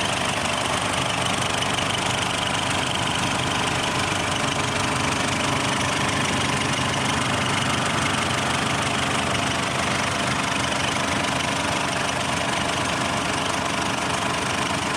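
Ford Ranger pickup engine running steadily at idle, with no revving.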